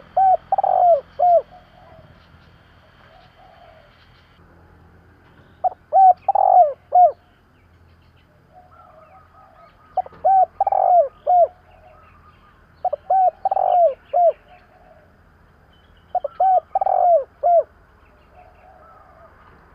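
Spotted dove cooing: five phrases a few seconds apart, each a quick run of three or four notes, with fainter cooing between the phrases.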